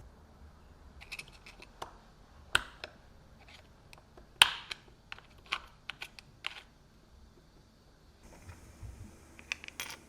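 A scattered series of sharp clicks and light knocks of small hard parts being handled, the loudest about four and a half seconds in, with a quicker cluster of clicks near the end.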